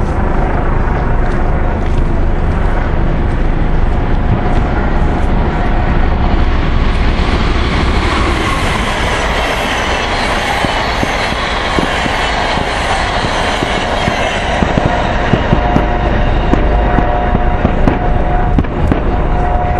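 Eurocopter EC135 T2 helicopter running overhead: a steady, loud rotor and turbine noise that swells in the middle and eases off toward the end, with scattered sharp pops.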